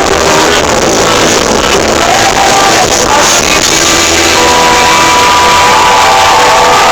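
Live rock band playing loud through a concert sound system, recorded from within the audience on a phone, with crowd voices shouting and singing along.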